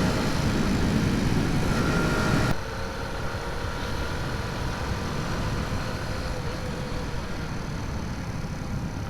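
Honda C90's small single-cylinder four-stroke engine running under a rider, with a steady rushing noise over it. About two and a half seconds in, the sound drops sharply and the engine carries on quieter.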